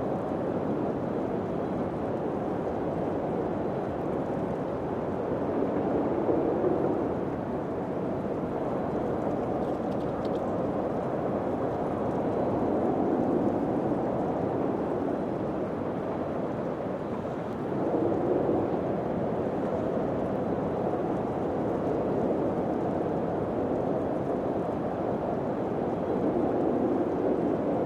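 Wind blowing steadily, swelling in gusts several times.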